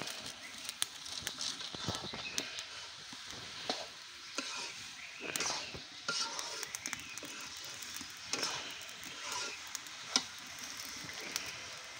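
Beef frying and sizzling in a wok over a wood fire, with a spatula scraping and stirring in the pan every few seconds and scattered sharp clicks.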